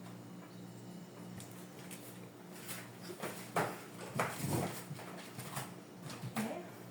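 A series of short knocks and clatters from things being handled, over a steady low hum.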